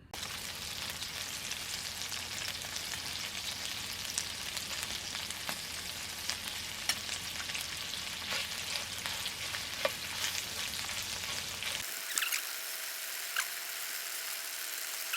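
Food frying in a hot pan: a steady sizzling hiss with many small crackles and pops. The sound changes abruptly about twelve seconds in, as the low background drops away and the sizzle carries on.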